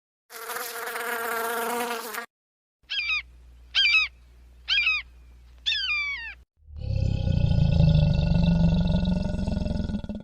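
Three different animal calls in turn: a harsh call of about two seconds, then four short chirping calls, then a long, low call of about three and a half seconds.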